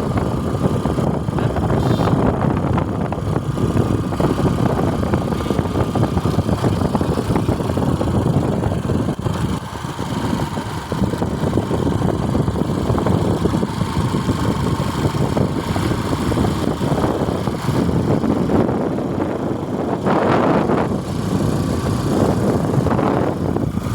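A vehicle engine running steadily, heard together with dense road or traffic noise, with a brief louder surge about twenty seconds in.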